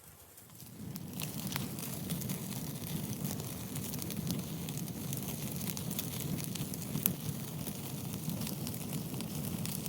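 Wood fire crackling with a steady low rumble, sharp pops scattered throughout; it comes in about a second in.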